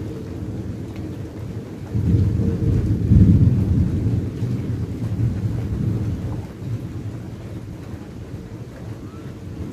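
Thunder rumbling through a phone's microphone, swelling about two seconds in, loudest around three seconds, then rolling off, with rain falling steadily underneath.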